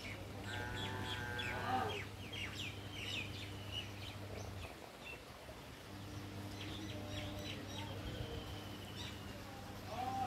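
Wild birds chirping and trilling, with many short high chirps and a louder layered call near the start, over a steady low hum.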